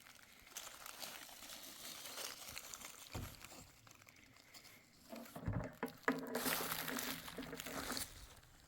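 Rustling and handling noises with scattered clicks and a low thump or two, then a steady pitched sound about six seconds in that lasts around two seconds.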